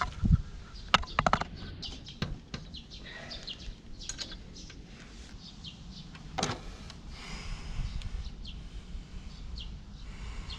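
Birds chirping in short calls amid scattered clicks and knocks, the loudest knock about six and a half seconds in.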